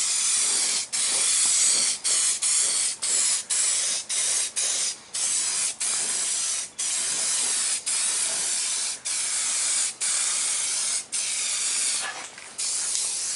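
Aerosol can of primer spraying in a rapid series of short hissing bursts, each a quarter of a second to about a second long. The bursts are broken near the end.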